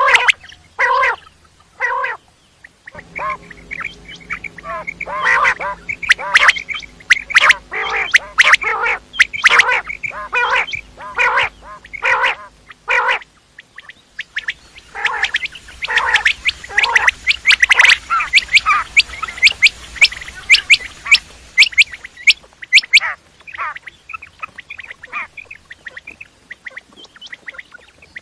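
Quail calling in quick series of short, rough notes, several birds overlapping. The calling is densest in the middle stretch and thins out to fainter calls near the end.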